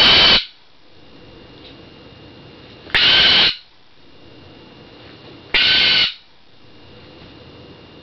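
Pet bird screaming for attention, which the owner calls hawking: three loud, harsh calls of about half a second each, repeated every two and a half to three seconds.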